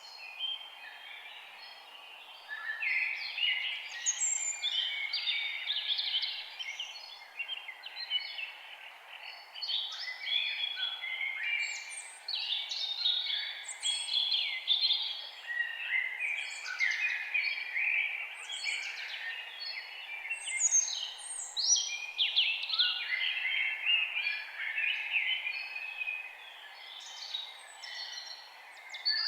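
A chorus of many forest birds singing and chirping at once, with quick overlapping notes and downward-sweeping whistles, over a faint steady hiss.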